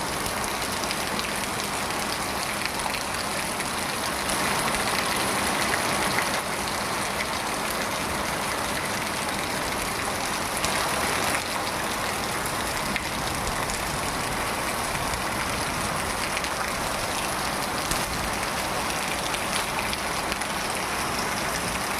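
Steady rain falling: an even hiss with scattered drop ticks, a little heavier for a couple of seconds about four seconds in.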